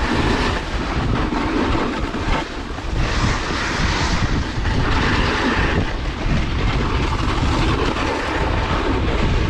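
Wind rushing and buffeting on the camera microphone while snowboarding downhill, with the board's edge scraping over the snow as it swells and fades through turns.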